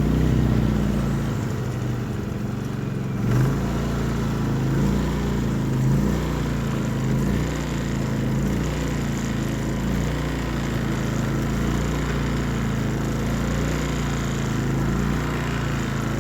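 Small petrol generator engine running steadily just after a cold-morning start, its pitch and level swelling briefly a few times in the first seconds.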